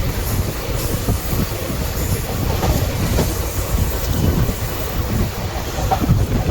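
Passenger train running on the rails: a steady low rumble with irregular clatter from the wheels.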